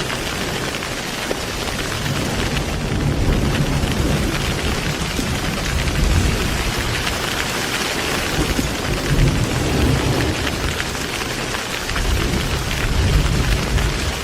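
Heavy rain falling steadily, with low thunder rumbling underneath that swells and fades.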